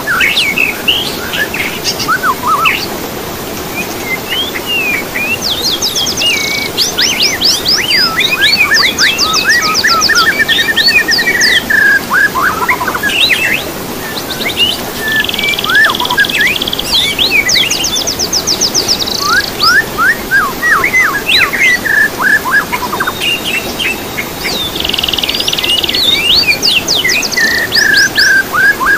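Songbird song: quick whistled notes and fast rapid-fire trills, with a similar phrase coming back about every ten seconds, as in a looped recording used to train caged birds to sing.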